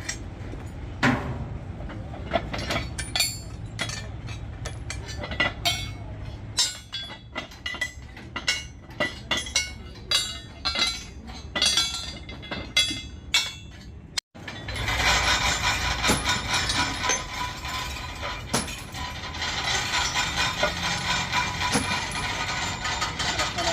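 Metal clinking and knocking as steel bulldozer track-chain parts are handled and struck, many separate sharp strikes. After a sudden cut about 14 seconds in, a steady, fast mechanical clatter takes over.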